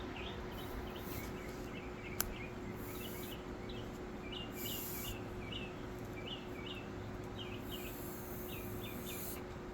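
A small bird chirping in quick short notes throughout. Several short high hissing bursts come and go, each lasting up to about a second and a half, over a faint steady hum.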